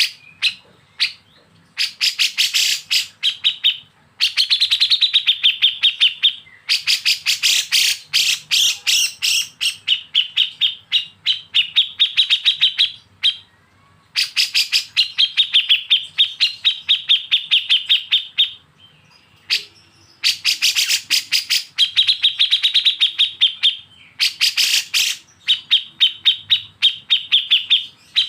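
Bulbul song in the fast, stuttering besetan style, from kapas tembak and cucak jenggot: bursts of rapidly repeated sharp notes, each burst lasting two to six seconds, broken by short pauses.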